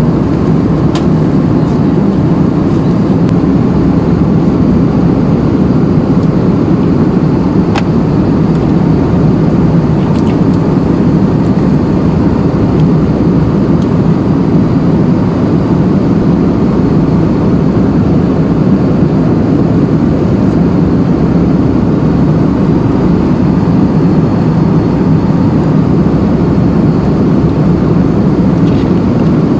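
Steady, loud rumble of a vehicle in motion, with no change in pitch.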